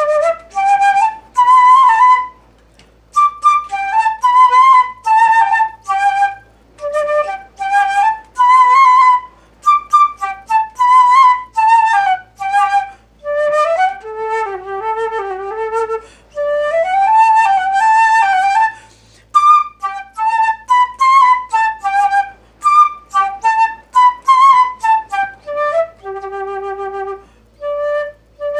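Solo flute playing a slow, freely phrased devotional melody: short phrases with breaths between them, held notes with vibrato, dipping to a few lower sustained notes near the end.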